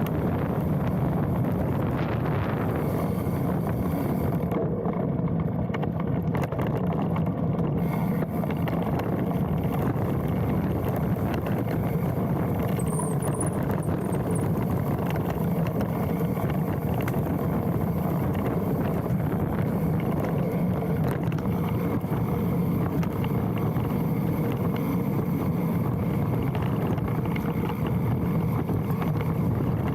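Specialized Stumpjumper mountain bike rolling downhill on a dirt trail: a steady rumble of tyres over the ground, with continual rattling of the bike and wind on the handlebar-mounted camera. A brief high squeal about halfway through is the brake, which squeals when applied.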